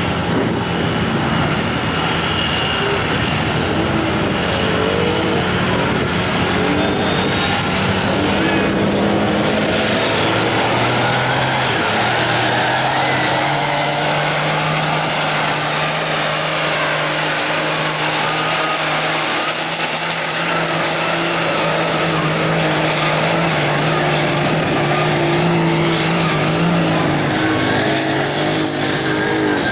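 Big mud truck engine running hard under sustained high revs, its pitch holding steady for long stretches with small shifts up and down, and a high whine through the middle.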